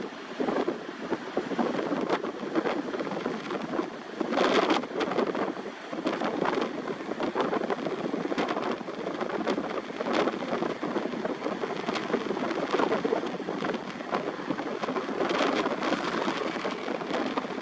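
Strong wind gusting across the microphone, a continuous rushing noise broken by frequent rough buffeting crackles that rise and fall with each gust.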